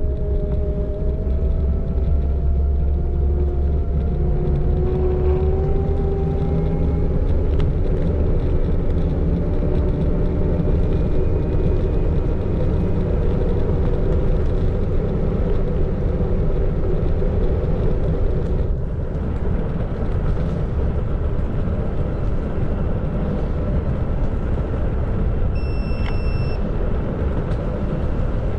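Xiaomi Electric Scooter 4 Pro being ridden: a loud, steady low rumble from the tyres on the road and the wind, with the motor's whine rising in pitch over the first several seconds as it speeds up. A short, high beep sounds once near the end.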